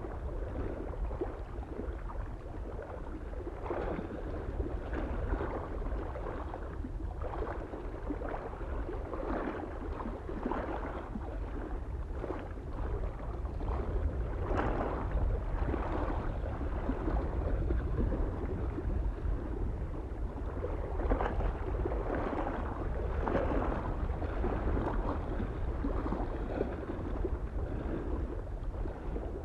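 Small waves lapping irregularly on a lake shore, a splash or two every second, over a steady low rumble of wind.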